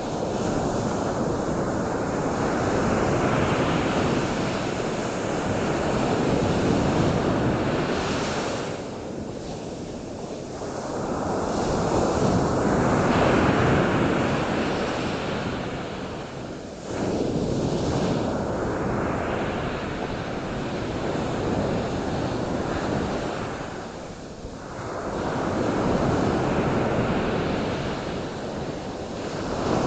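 Ocean surf: a steady rush of breaking waves that swells and fades in long surges every several seconds.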